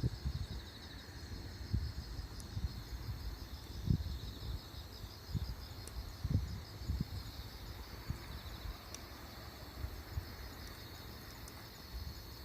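Wood fire burning in a Solo Stove Campfire fire pit: an uneven low rumble of flame with a few faint pops. Insects chirp steadily in a high, pulsing drone throughout.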